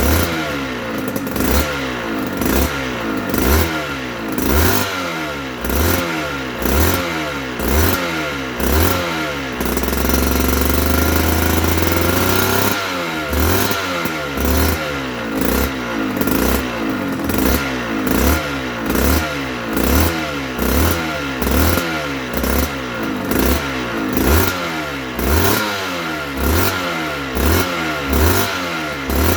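Aprilia RS125's 125 cc single-cylinder two-stroke engine being revved in quick repeated blips, about one to one and a half a second. About ten seconds in it is held at a steady higher speed for some three seconds, then goes back to the repeated blips.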